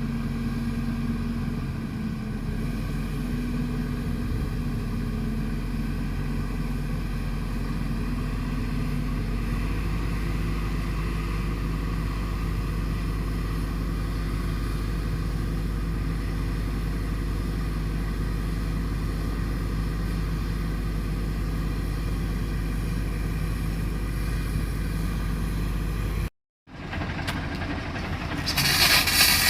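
Fire engine's engine running steadily at idle. Near the end, after a brief cut, a loud hiss rises.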